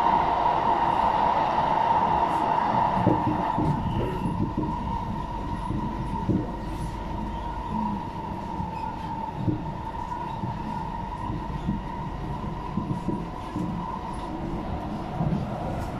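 SMRT metro train running between stations, heard from inside the car: a steady rumble with a held tone and scattered knocks from the wheels, easing slightly in loudness.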